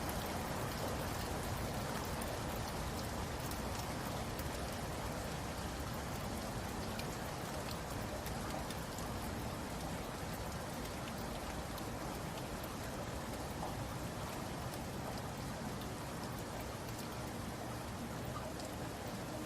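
Steady rain falling, an even patter with scattered individual drops ticking through it.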